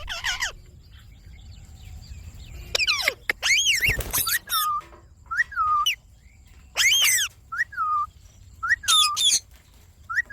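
Indian ringneck parrots calling: a series of short, shrill squawks and chirps that sweep up and down in pitch, coming in clusters every second or so.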